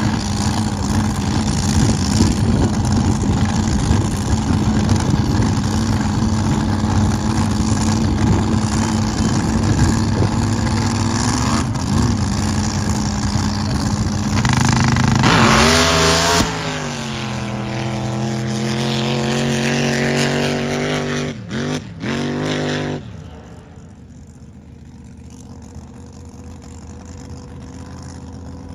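Racing drag boat engines running loud and steady. About fifteen seconds in, one goes to full throttle and blasts off, its note sliding down as it runs away down the course, and it drops to a quieter hum near the end.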